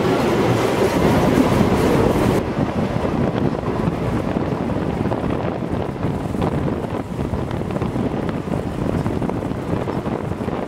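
Wind buffeting the microphone over the steady rumble of a steam-hauled passenger train running along the track, heard from an open coach window. About two seconds in the sound changes abruptly and loses its hiss.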